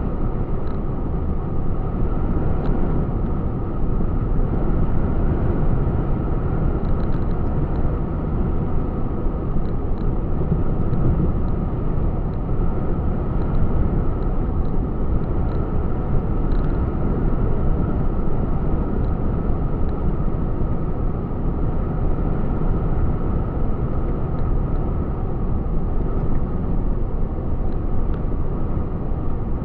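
A truck on the road: steady engine and road noise that stays even throughout.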